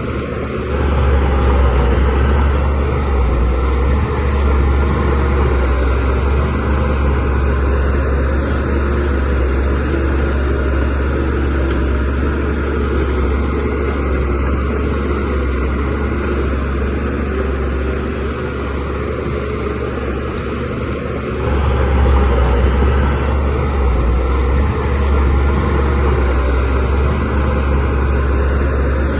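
Shantui DH17C3Pro bulldozer's diesel engine running steadily at work with a deep drone. It grows louder about a second in and swells again about three-quarters of the way through.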